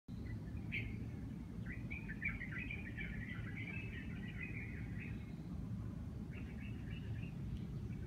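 Songbirds singing: a short chirp about a second in, then a long quick run of chirping notes for some three seconds, and a shorter run near the end, over a steady low background rumble.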